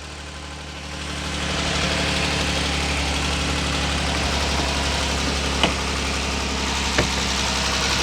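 A 3.6L Pentastar V6 idles with a constant tick from the valve train, growing louder about a second in and then holding steady. The mechanic takes the tick for the early stage of a failing roller rocker arm on bank one. Two short, sharp clicks sound in the second half.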